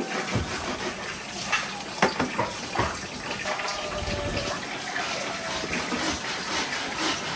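Steady rush of running or splashing water, with a few sharp knocks about a couple of seconds in.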